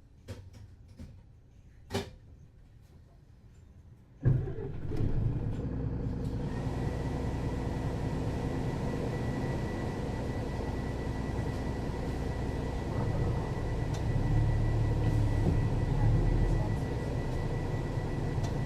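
A few clicks, then about four seconds in the diesel engine of a Mercedes-Benz O 530 Citaro city bus starts abruptly and settles into a steady low running, with a faint high steady whine over it. The rumble grows a little louder near the end.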